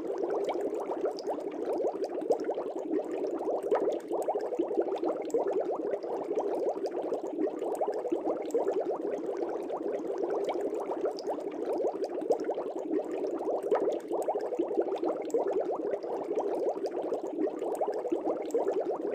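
Aquarium air bubbles rising and popping in a fish tank: a steady, dense bubbling with many small pops.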